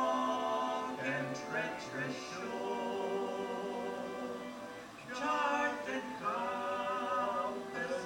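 Vocal group singing a gospel song in harmony, unaccompanied, with long held notes.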